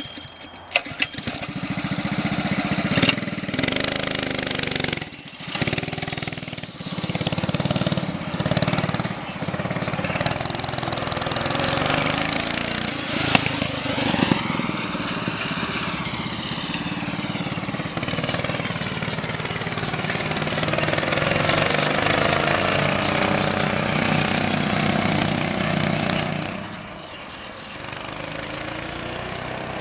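Harbor Freight Predator 212 cc single-cylinder four-stroke engine on a mini bike with a Brute muffler, running hard as the bike is ridden, the throttle briefly let off several times in the first few seconds. Its pitch rises and falls as the bike goes past about halfway through, and the sound drops off near the end.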